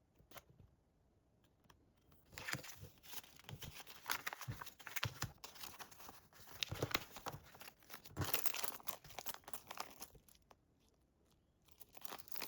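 Crinkling, crackling handling noise with tearing, as crinkly material is crumpled and pulled apart. It starts about two seconds in, goes on in uneven bursts until about ten seconds, and comes back briefly near the end.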